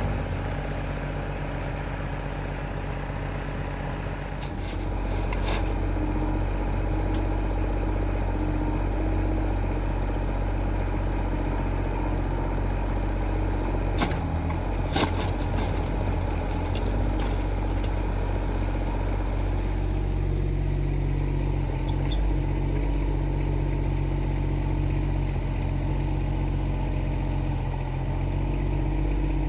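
Engine running steadily, getting louder about four seconds in, with a couple of sharp knocks around the middle.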